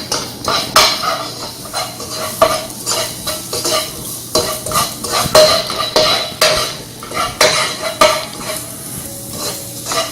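Minced garlic and ginger sizzling as they fry in a little oil in a pan, while a utensil stirs and knocks against the pan with frequent, irregular clinks.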